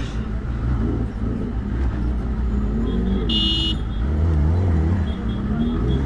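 Superbike engine running steadily while riding through traffic, getting louder from about four seconds in. A short vehicle horn honk sounds about three and a half seconds in.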